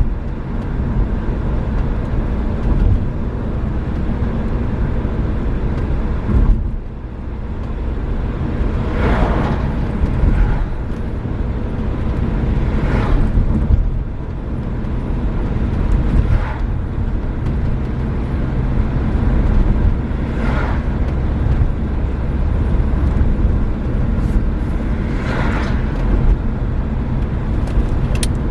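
Renault Megane III being driven: a steady low rumble of engine and road noise, with five brief rushing sounds spaced a few seconds apart.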